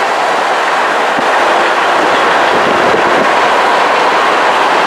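Freight train with diesel locomotives rolling alongside at speed, a steady loud rush with faint rail clicks, heard from a moving car through an open window and mixed with the car's own road and wind noise.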